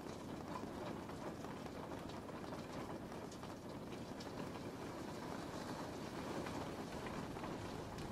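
Steady rain falling: an even hiss with scattered individual drops ticking throughout.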